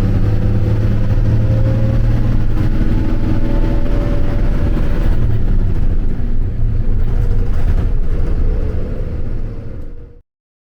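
A vehicle's engine running with a steady low rumble, fading away near the end.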